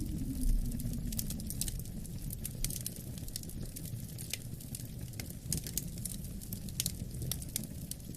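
Wood fire crackling with many sharp pops over a low, steady wind rumble; a wind howl glides down in pitch in the first couple of seconds.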